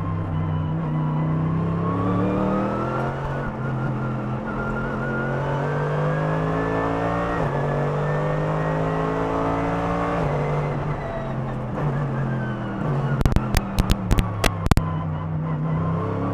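Mercedes-AMG GT3 race car's 6.2-litre naturally aspirated engine at full race pace from on board, revs climbing and dropping back at each upshift, falling away about two-thirds through and pulling hard again near the end. A short cluster of sharp crackles comes about four-fifths of the way in.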